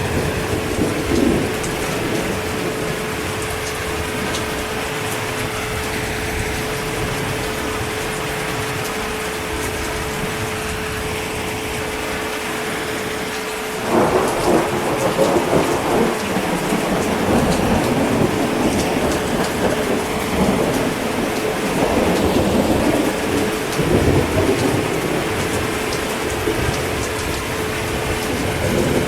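Steady heavy rain, with a roll of thunder that breaks in suddenly about halfway and rumbles on for about ten seconds before easing back into the rain.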